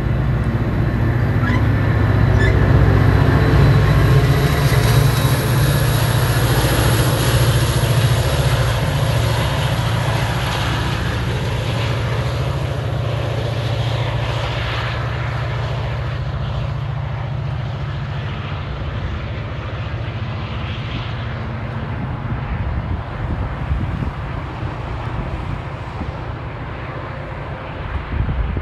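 Metra bilevel commuter train pulling away under the power of its diesel locomotive: a deep, steady engine drone with rolling rail noise. It is loudest a few seconds in and slowly fades as the train recedes.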